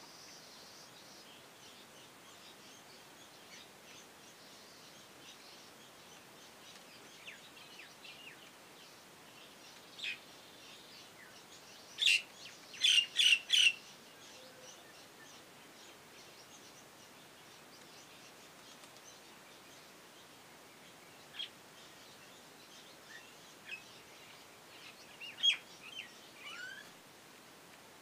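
Birds calling over a faint steady hiss: scattered faint high chirps, four sharp loud calls in quick succession about twelve seconds in, and a few more calls near the end.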